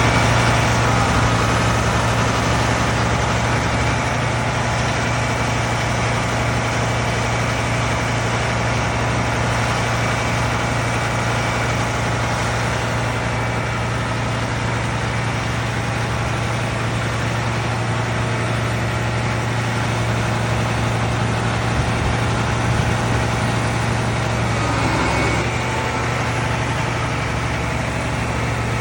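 Roll-off garbage truck's diesel engine idling steadily, a low even hum.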